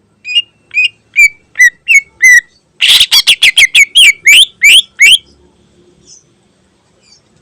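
Greater green leafbird (cucak ijo) singing. It gives six separate slurred whistles, then a loud, fast run of rising notes for about two seconds that stops abruptly about five seconds in.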